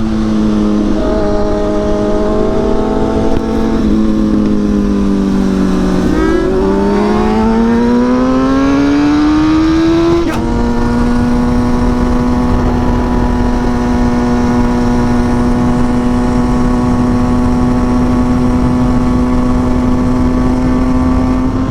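Sport bike's inline-four engine heard from on board under way, with steady wind rush. The engine pitch sags a little, then climbs under acceleration, breaks sharply at a gear change about ten seconds in, and holds a steady high note for the rest.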